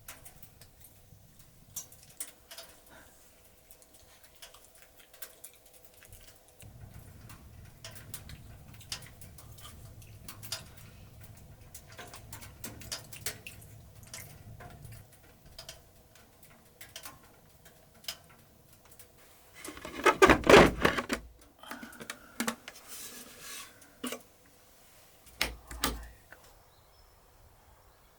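Scattered light clicks and knocks of small objects being handled, with a louder burst of clatter about twenty seconds in.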